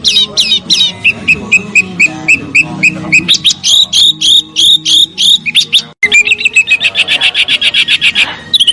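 Songbird song from a bird-training (masteran) recording: loud, rapidly repeated sharp whistled notes that change phrase type every few seconds. It cuts off abruptly about six seconds in and resumes as a fast, dense trill.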